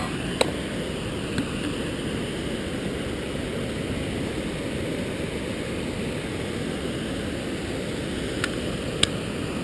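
Steady wind and riding noise on the microphone of a moving bicycle, with a few sharp clicks, the loudest near the end.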